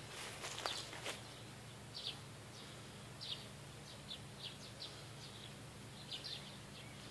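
Birds chirping: short, high chirps that recur irregularly. A few footsteps crunch through dry grass in the first second.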